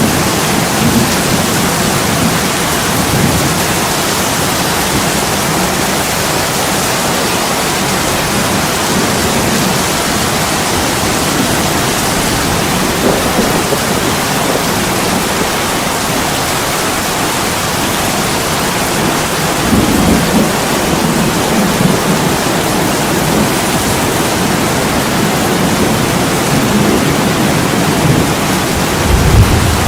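Heavy rain pouring onto a window, a steady dense hiss, with a low rumble of thunder swelling about twenty seconds in.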